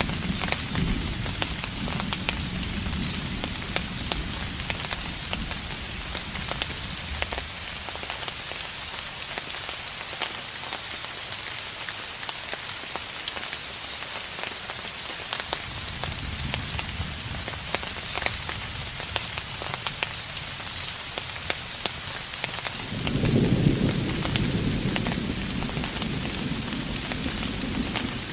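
Steady rain patter with distant thunder: a low rumble fades early on, another rises past the middle, and a louder roll of thunder starts near the end and keeps rumbling.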